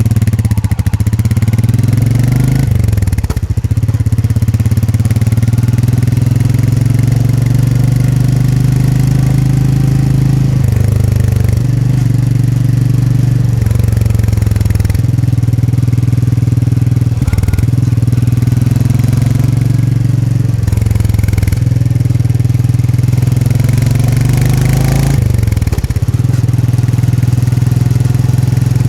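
Royal Enfield Meteor 350's single-cylinder engine and exhaust running under way, the note climbing with the throttle and dropping back every few seconds as the rider changes gear or eases off.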